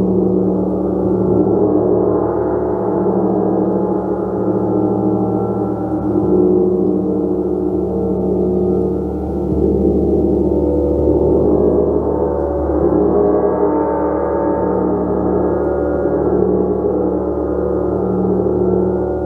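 Gong played continuously in a sustained, swelling wash of overlapping tones, with a deep hum beneath and shimmering overtones that rise and ebb in waves.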